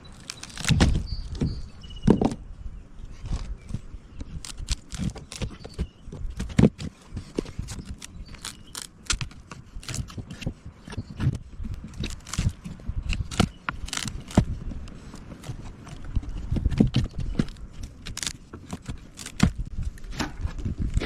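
Irregular knocks, clicks and clatter of hand-tool work on wood, coming at an uneven pace with no steady rhythm.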